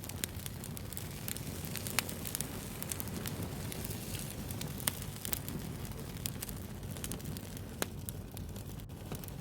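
Wood fire burning with a steady low rumble, broken by irregular sharp pops and crackles of the burning wood.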